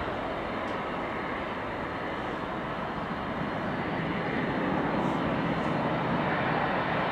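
Steady roar of jet airliner engines, growing a little louder near the end.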